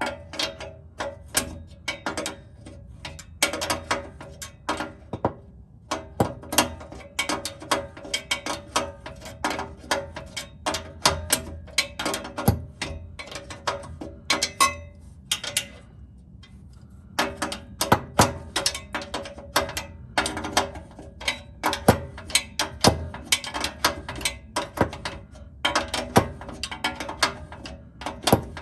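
Ratchet wrench clicking in quick runs with short pauses between them, turning the bolts of an exhaust test pipe.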